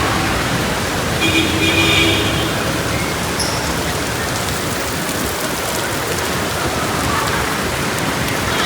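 Heavy rain pouring steadily in a city street, an even rushing hiss. A brief tone sounds about a second in.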